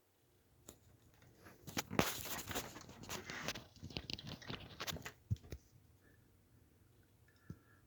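A few seconds of dense crackling and rustling with scattered knocks and one sharper thump near the end, in a small room.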